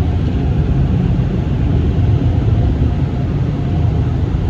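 PDQ LaserWash 360 Plus car wash dryer blowers running steadily, a loud low rush of air heard from inside the car.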